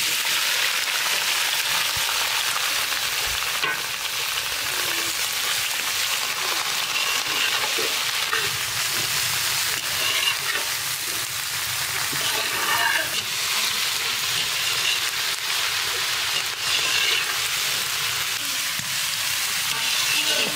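Capsicum sizzling steadily in hot oil in a pan while it is stirred, with a few light strokes of the stirring now and then.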